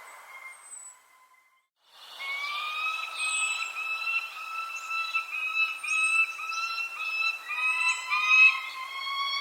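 Birds calling: short, high, downward-sweeping chirps over long, wavering whistled tones with overtones. The sound drops out briefly about a second in, then resumes.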